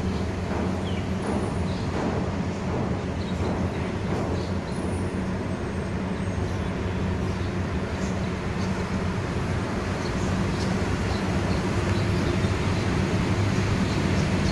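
Steady vehicle rumble: a constant low engine hum under even road-like noise, with faint scattered ticks.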